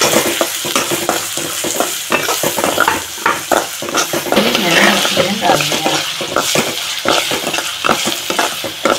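Chopped onions and chillies sizzling in hot oil in a kadhai, stirred with a metal spatula that scrapes and clicks against the pan many times.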